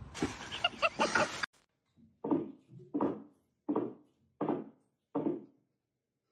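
A pet animal calling five times in short, evenly spaced calls about 0.7 s apart, after a brief noisy stretch that cuts off abruptly about a second and a half in.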